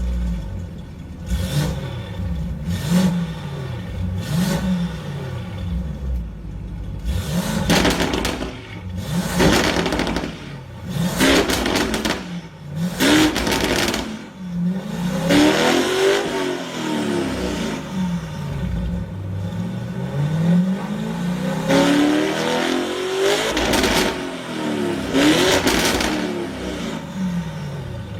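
Lamborghini Urus twin-turbo V8 revved repeatedly at a standstill through an Fi Exhaust valvetronic exhaust: a few short throttle blips, then sharper, louder revs, then longer climbs and falls in pitch.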